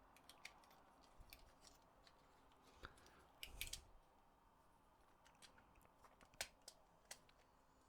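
Faint, scattered clicks and light taps of small plastic controller parts being handled, with a small cluster of knocks about three and a half seconds in and a sharper tick a little after six seconds.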